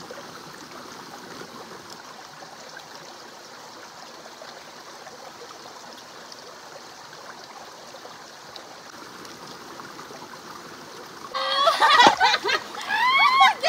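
River water flowing in a steady rush. About eleven seconds in, louder pitched sounds with sweeping rises and falls cut in over it.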